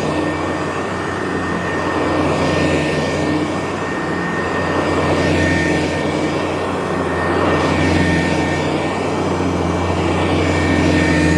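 Hoover U4007 upright vacuum cleaner running on carpet, its motor humming steadily with its commercial four-row brushroll, the sound swelling and easing every few seconds as it is worked back and forth.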